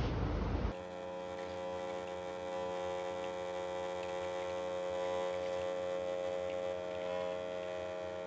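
A steady electrical hum made of several held tones, starting abruptly just under a second in.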